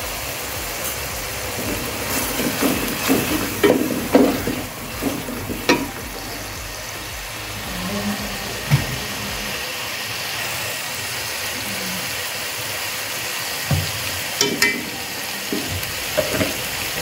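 Onion and tomato masala sizzling steadily in hot oil in an aluminium pot, ground spices just added. A wooden spatula scrapes and knocks against the pot now and then, most often a few seconds in and again near the end.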